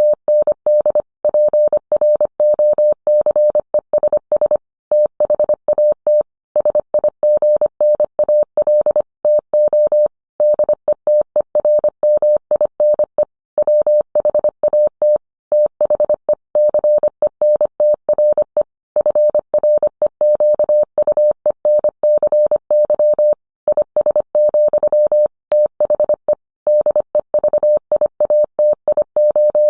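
Morse code: a single steady mid-pitched tone keyed on and off in quick dots and dashes, with longer pauses between words.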